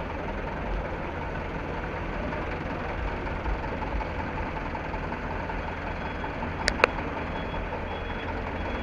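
Truck engine idling steadily, with two sharp clicks close together about seven seconds in.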